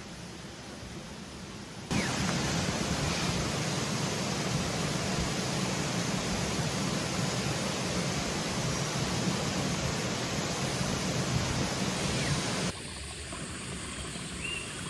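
Steady rushing noise with no tone in it, starting suddenly about two seconds in and dropping back abruptly near the end.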